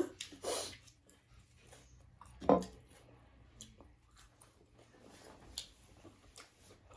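Eating sounds: chewing and wet mouth sounds, with scattered small clicks and a short louder sound about two and a half seconds in.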